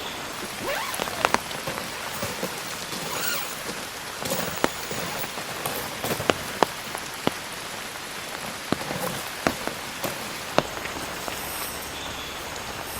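Heavy rain falling steadily on a surface, with scattered sharp, louder drop hits.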